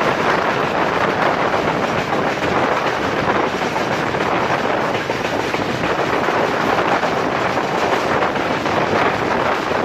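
Express train running at speed, heard from on board: a steady rushing noise of the moving train with wind blowing on the microphone.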